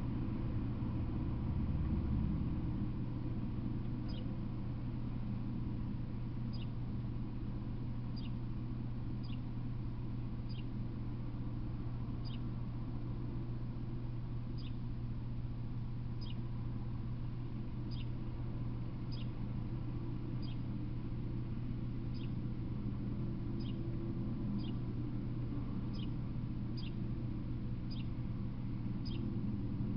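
A small bird calling repeatedly with short, high, falling chirps about once a second, over a steady low hum.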